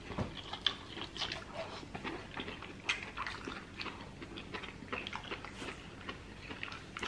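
Close-miked chewing and wet mouth sounds of someone eating a sauced seafood-boil prawn: irregular soft clicks and smacks, several a second.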